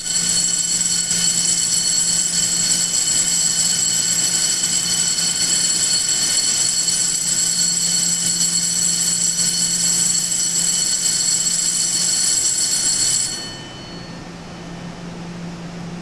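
Station platform's electric departure bell ringing continuously, a dense, high, steady ringing that cuts off suddenly about thirteen seconds in. A low steady hum continues underneath, from the waiting EMU700 electric train.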